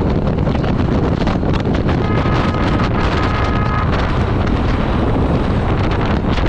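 Heavy wind rushing over the microphone of a rider's camera on a moving motorcycle, with the bike and traffic underneath. Two short high tones sound back to back about two seconds in.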